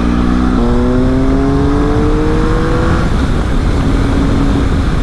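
Triumph Speed Triple's inline three-cylinder engine under way, with wind rush on the helmet-mounted microphone. About half a second in the engine note steps up, then climbs steadily as the bike accelerates until about three seconds in, and settles to a lower, steady note as the throttle eases.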